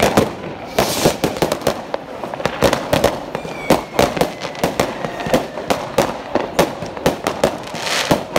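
Fireworks going off in rapid succession: many sharp bangs and crackles, several a second, with a faint falling whistle midway.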